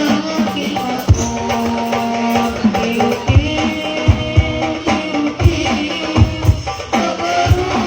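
Hadroh ensemble playing: hand drums strike deep beats under a melodic line of held and sliding notes.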